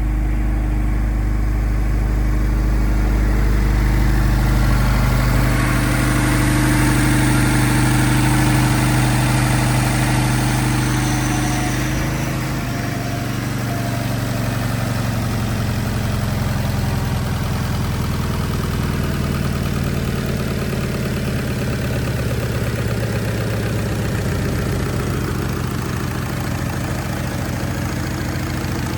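Turbocharged Scion FR-S's 2.0-litre flat-four boxer engine idling steadily. About twelve seconds in, its sound shifts and drops slightly.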